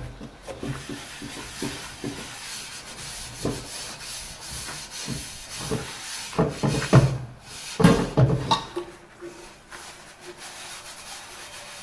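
Dishes being scrubbed by hand: a steady rubbing and scraping, with a few knocks of dishware about two-thirds of the way through.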